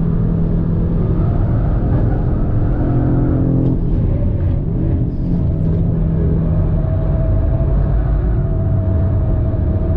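Audi RS3's turbocharged five-cylinder engine running hard at speed around the track, heard from inside the cabin; its pitch shifts several times in the first half, then holds steadier.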